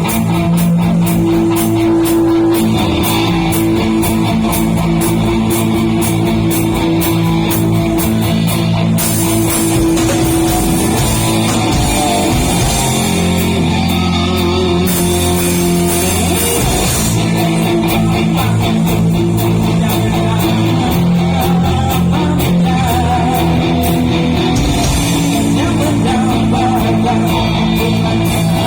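Buskers' band playing a rock song on amplified electric guitar, with a drum kit keeping a steady beat on the cymbals.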